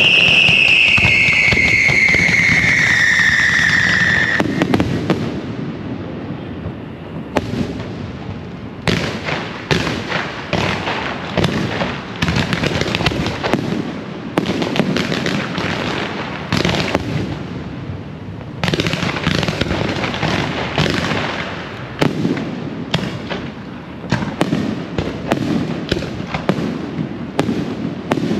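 Fireworks: a long whistle falling in pitch for about the first four seconds, then dense crackling and sharp popping of firecrackers and fireworks, coming in waves with short lulls.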